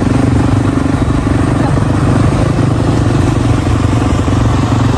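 Dirt bike engine running loud and steady under way, holding an even pitch with no revving up or down.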